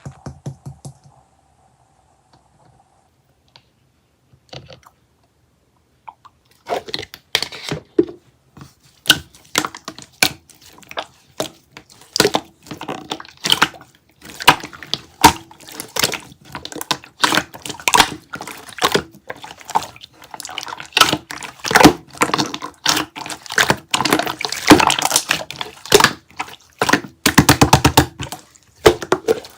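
A faint steady tone for the first few seconds, then, after a pause, rapid irregular clicks and crackles from about seven seconds in that grow denser toward the end.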